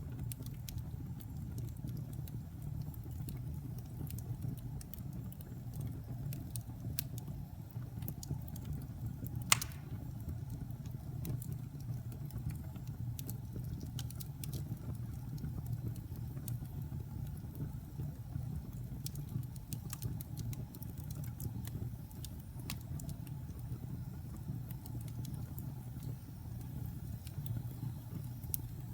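Wood fire burning in a fireplace: scattered crackles and small pops over a steady low rumble, with one loud pop about ten seconds in.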